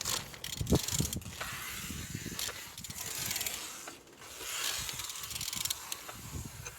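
Renault K9K 1.5 dCi four-cylinder diesel engine, out of the car, being turned over by hand: a mechanical whirring with ratchet-like clicks in two long turns, with a short pause about four seconds in. It turns freely, a sign that the engine is not seized.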